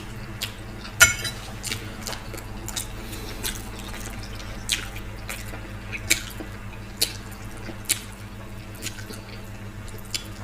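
Close-up chewing of a mouthful of vegetable rice: scattered wet mouth smacks and clicks, the sharpest about a second in.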